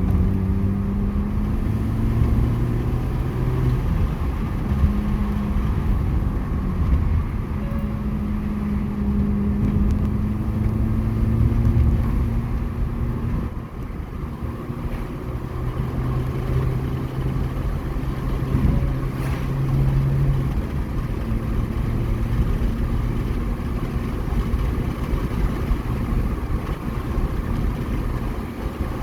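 Mini Cooper S R53's supercharged 1.6-litre four-cylinder engine running on the road, its note rising and falling in steps as the car speeds up and changes gear, over steady road and tyre noise.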